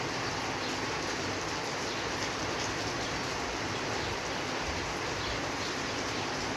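Steady rain falling, an even hiss without pause.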